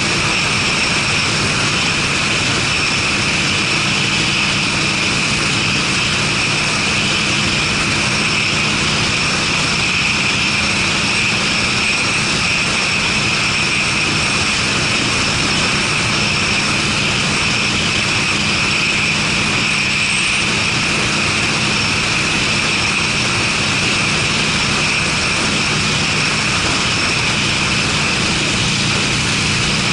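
Harley-Davidson Sportster's air-cooled V-twin running steadily at a constant cruising speed through aftermarket Screamin' Eagle mufflers, under a loud, even rush of wind and road noise.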